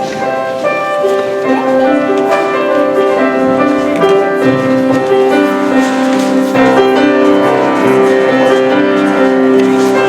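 Piano music, with notes held and changing in a steady melodic line.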